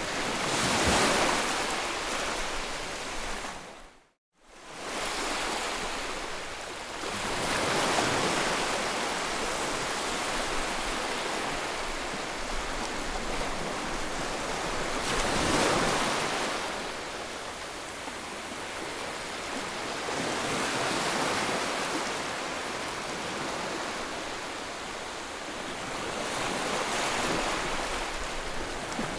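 Ocean waves washing onto a shore, the surf swelling and easing five times, about every six to seven seconds. Just after four seconds in, the sound cuts out for about half a second and then fades back.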